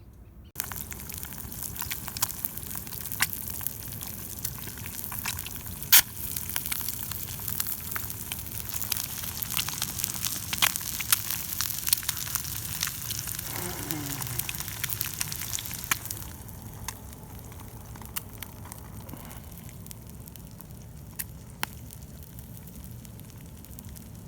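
Eggs frying in a hot pan: a sizzle that starts suddenly about half a second in, full of sharp spitting pops, then settles into a quieter, steadier sizzle about two-thirds of the way through.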